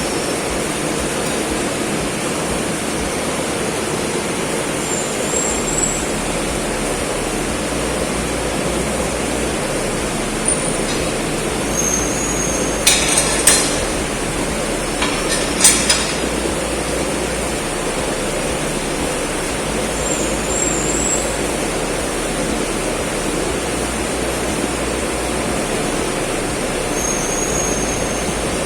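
Steady rushing background noise, with a few short sharp clinks of metal about halfway through.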